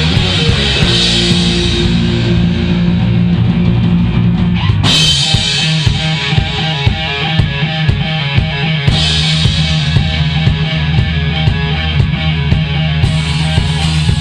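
Heavy metal band playing, with distorted electric guitars, bass and drum kit. About five seconds in, the song moves into a new section with a cymbal crash and a fast, regular drum beat.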